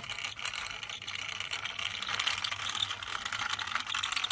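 Toy school bus running along a plastic toy track: a steady, fast rattling clatter of small plastic parts clicking.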